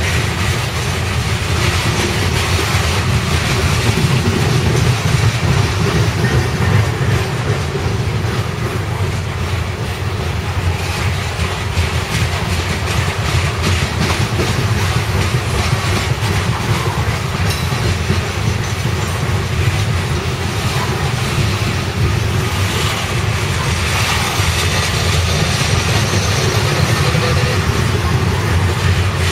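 CSX coal train's cars rolling past at speed: a steady rumble with many rapid wheel clicks over the rails.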